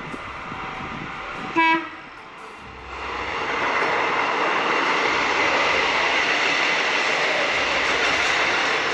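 KAI passenger train sounding one short horn blast about one and a half seconds in, then passing close by: the rumble of the train and its wheels on the rails swells from about three seconds in and holds steady.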